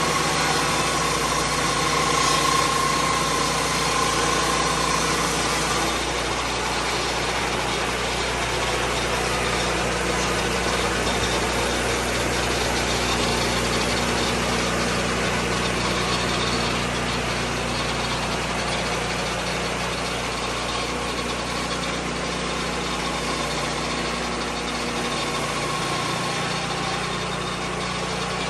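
Lucas Mill 10-30 swing-blade sawmill's engine running steadily, its note shifting about six seconds in.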